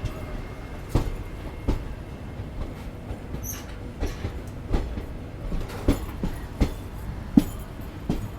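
Passenger train running on the track: a steady rumble with irregular clacks of the wheels over rail joints, roughly one a second.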